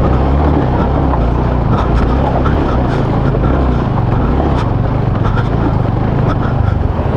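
Vehicle engine running steadily under load while pushing through deep mud on a rough dirt road, with scattered clicks and knocks from the wheels and stones.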